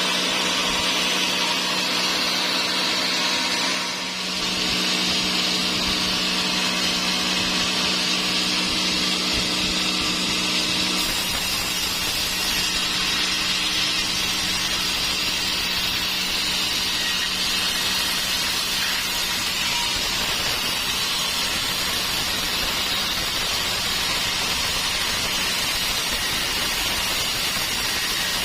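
Sawmill saw running steadily through dry teak timber, a loud even noise. A low hum underneath drops away about eleven seconds in.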